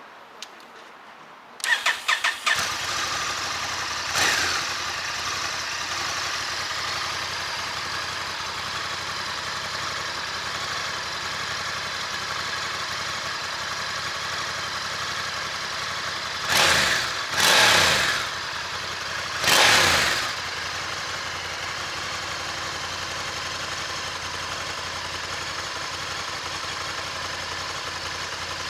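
Honda Africa Twin 1100's parallel-twin engine on its stock exhaust. It is started with a brief crank about two seconds in, blipped once, and settles into a steady idle. About two-thirds of the way through, three quick throttle blips rise and fall.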